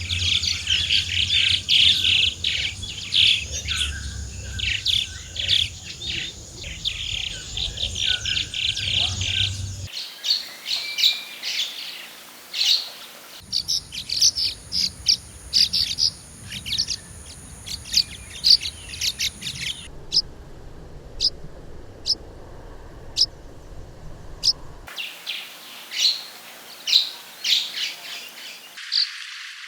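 Swallow calls from several field recordings joined one after another: a dense run of twittering chirps at first, then sharper, more spaced single chirps, with the background changing abruptly at each join.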